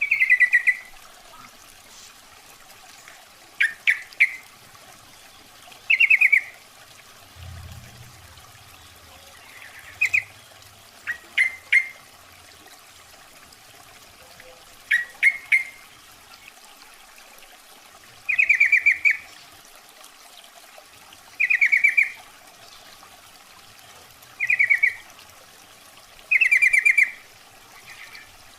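Female sooty-headed bulbul giving short, rapid chattering calls every two to three seconds, some as quick bursts of two or three sharp notes: a lure call used to draw in males.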